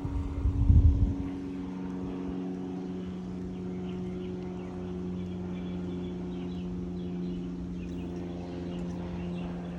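A vehicle motor running at a steady hum, with a brief low rumble about a second in.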